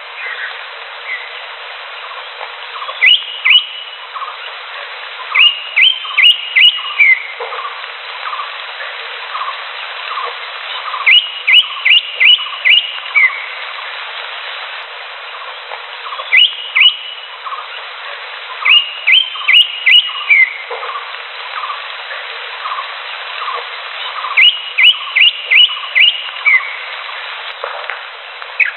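Green leafbird (cucak hijau) song: groups of two to five sharp, upward-slurred whistled notes in quick succession, repeated every few seconds. Behind it runs a steady chorus of softer, short calls.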